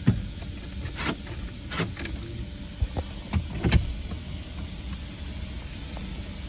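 A handful of sharp clicks and knocks in the first four seconds, over a steady low hum.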